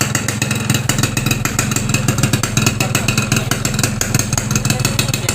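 Yamaha RX-King 135 cc two-stroke single running through a Bobokan aftermarket exhaust, with a steady rapid exhaust beat.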